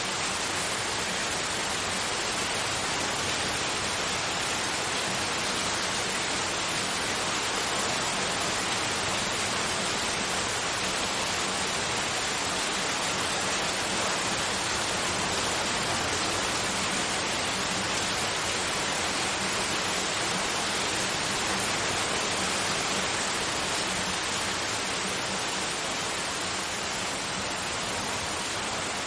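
Steady white noise: an even, unbroken hiss with no rhythm or events, its level holding constant.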